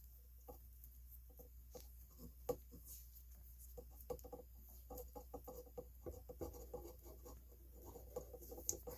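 Faint, irregular small clicks and rustles of hands working black electrical tape around a cord splice, over a steady low hum.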